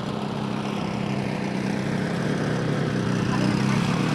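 Kohler 7000 Series engine on a Poulan Pro riding mower running steadily, getting slightly louder toward the end.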